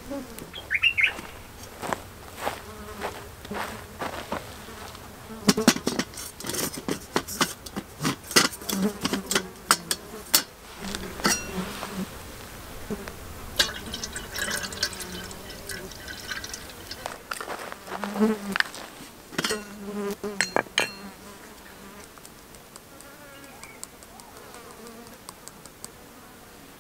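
A fly buzzing close to the microphone, coming and going, among many sharp clicks and knocks of things being handled. The clicking stops a little before the end, and only a faint hiss is left.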